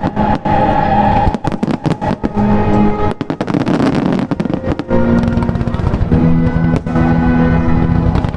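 Music with held notes, mixed with many sharp firework bangs and crackles going off throughout.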